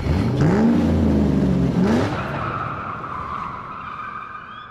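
Race-car sound effect: an engine revving up and back down, then a long tyre squeal that slowly fades.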